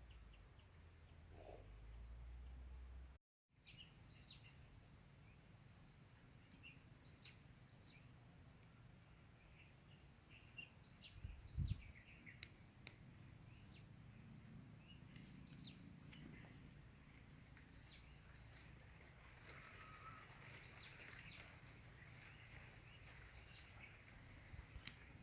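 Gelatik birds chirping: short, high calls in scattered clusters, faint, with a steady faint high insect drone underneath.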